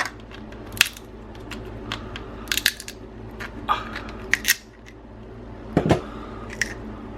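Boiled crab shell being cracked and pulled apart by hand: a series of sharp, separate cracks and snaps, over a steady low hum.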